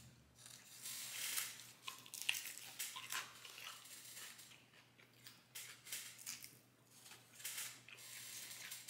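A person chewing a crunchy, unbreaded fried chicken wing, its crisp skin crackling in irregular crunches that are loudest in the first few seconds.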